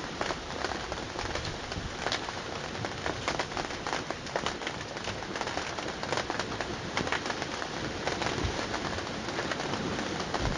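Steady rain with many close, separate drops tapping on a surface.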